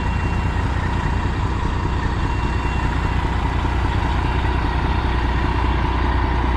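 Freightliner Classic semi truck's diesel engine idling, a steady, unbroken low rumble.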